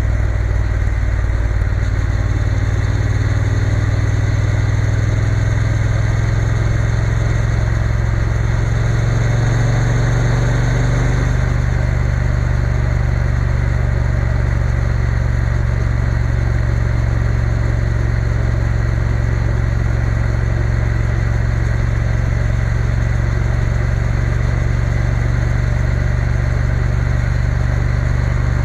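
Triumph Bonneville T120 parallel-twin engine running steadily on the move, under a rush of wind noise. The engine note shifts briefly about ten seconds in.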